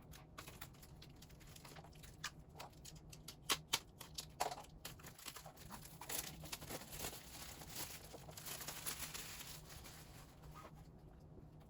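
K-pop album packaging being handled and unwrapped: scattered clicks and taps, then a longer stretch of crinkling and rustling of plastic and paper.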